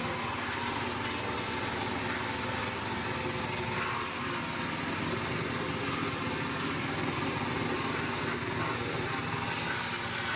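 Engine of a DWC-22 portable wood chipper running steadily.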